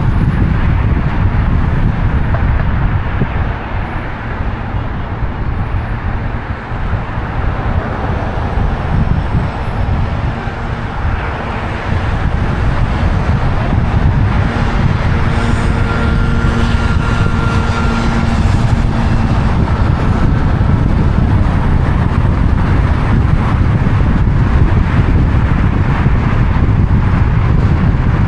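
Road traffic noise: a steady, loud rumble of vehicles, with a humming tone that stands out for a few seconds past the middle.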